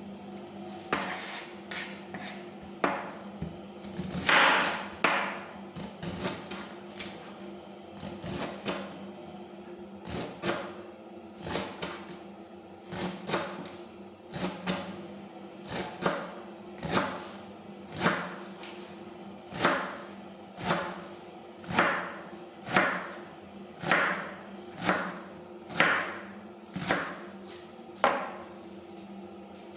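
Knife chopping food on a cutting board: sharp knocks, scattered at first, then settling into a steady rhythm of about one stroke a second. A steady low hum runs underneath.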